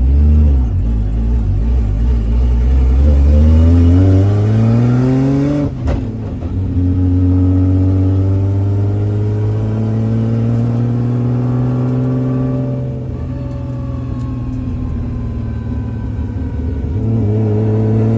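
Nissan Silvia S15's engine heard from inside the cabin, revving up hard under acceleration. About six seconds in there is a short clunk and the pitch drops as it shifts up, then it climbs again more slowly, eases off around thirteen seconds and picks up again near the end.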